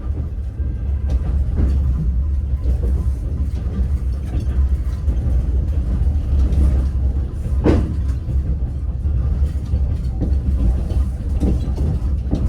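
Moving passenger train heard from inside the carriage: a steady low rumble with scattered knocks from the wheels, and one sharp, louder clack a little under eight seconds in.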